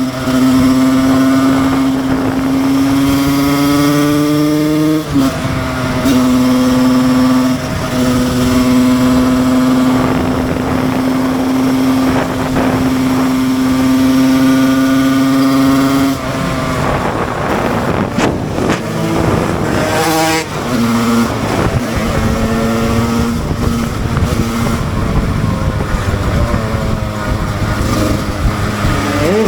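Husqvarna SM 125 two-stroke supermoto engine running hard under riding load. Its pitch breaks briefly at two quick gear changes early on, then holds steady. Past the middle the revs waver up and down with more rushing noise, then settle and climb again near the end.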